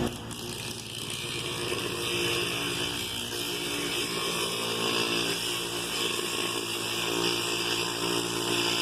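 Bench grinder fitted with a cutting disc running steadily at speed, a continuous motor whine with a hissing top.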